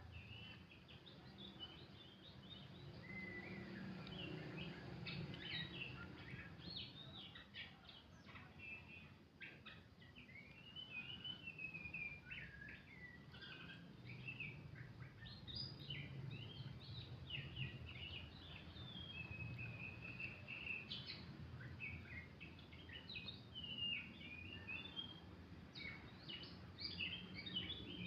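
Oriental magpie-robin (kacer) singing a long, continuous, varied song of rapid chirps and short whistles, over a low background rumble.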